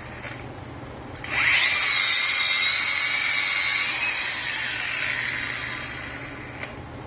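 A hand-held power tool's electric motor spins up with a quick rising whine about a second in, runs at a steady high pitch for a few seconds, then dies away.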